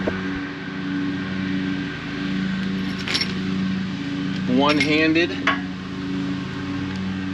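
A few light metallic clinks of bolts and hand tools during assembly, over a steady engine-like hum that runs throughout.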